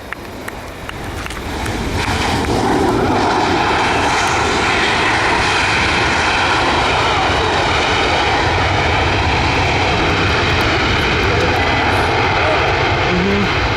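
Jet engines of a Southwest Airlines Boeing 737 passing close by, swelling over the first two seconds into a loud, steady engine noise.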